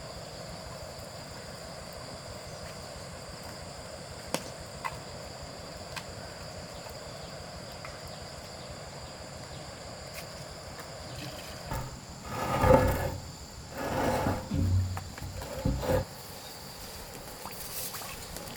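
Steady high insect chirring, with a few sharp clicks, then a run of louder rough sounds lasting about four seconds, starting about twelve seconds in.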